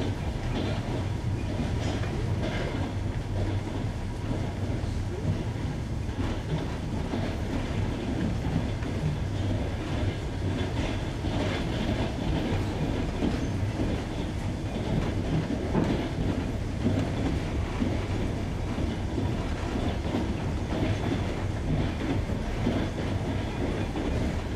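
Wheels of a passenger train clattering over jointed rails, heard from aboard the train: a steady running rumble with repeated clacks as the wheelsets cross the rail joints.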